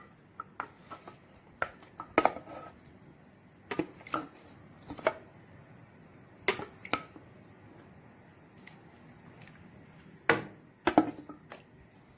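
A cooking spoon knocking and scraping against a pot in scattered clicks as chicken pieces are moved and spread out in the spiced tomato base. There is a quiet stretch in the middle and a last few knocks near the end.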